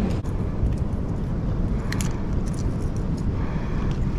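Wind buffeting the microphone, a steady low rumble, with a few faint clicks about two seconds in.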